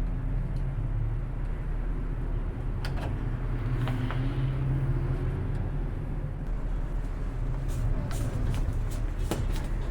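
Car engine running steadily, with a few sharp clicks about three seconds in and near the end.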